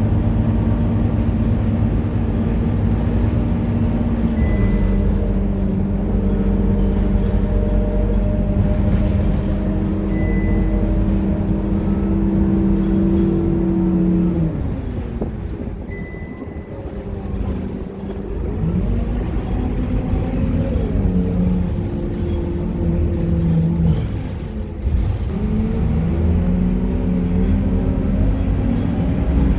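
Scania K230UB bus's five-cylinder diesel engine under way, heard as a ride: the engine note holds and steps as the gearbox shifts. About halfway through it falls away as the bus slows, then builds again through the gears as it pulls off. A short high beep sounds about every six seconds in the first half.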